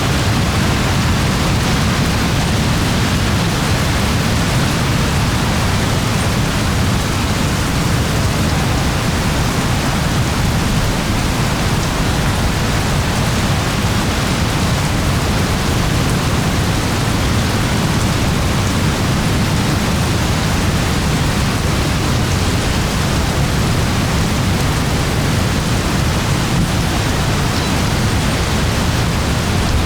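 Steady rain: an even, unbroken hiss with a heavy low rumble beneath it.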